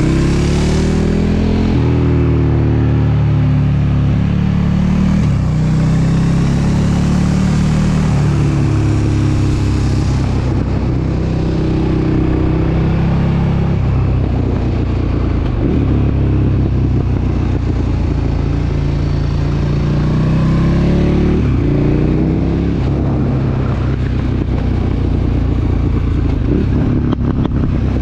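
KTM 1290 Super Duke R's V-twin engine under way, its revs climbing several times as it accelerates and dropping back between pulls.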